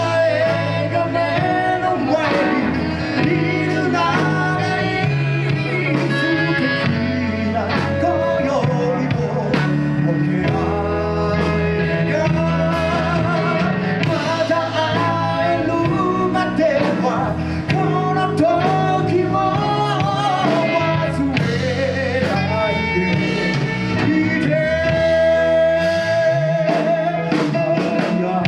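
Live band playing a slow ballad, with a lead vocal singing over guitar and bass.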